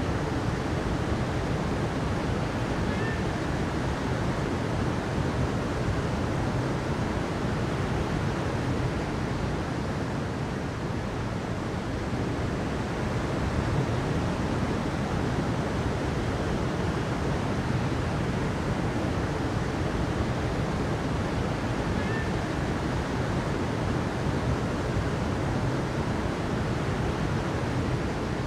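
Steady rushing water, an even, unbroken noise with its weight in the low range.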